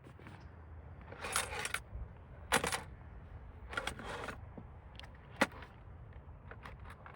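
Cooking gear being handled: scattered metallic clinks and knocks, a few in quick clusters and one sharp click, over a steady low rumble.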